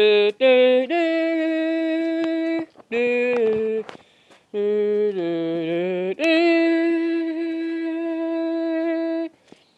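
A voice humming or singing four long held notes, the longest about three seconds, the third stepping down in pitch.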